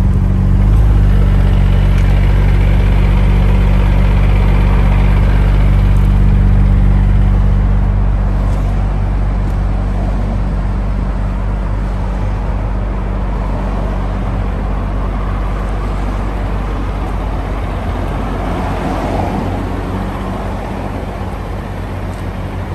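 1999 Nissan Skyline GT-R V-spec's RB26DETT twin-turbo straight-six idling steadily through a NISMO NE-1 exhaust, a little quieter after about eight seconds.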